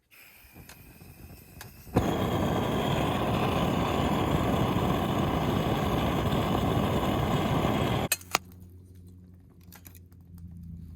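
Handheld gas torch lighting firewood: a faint gas hiss, then it catches with a click about two seconds in and burns with a loud, steady jet noise for about six seconds before it is shut off abruptly.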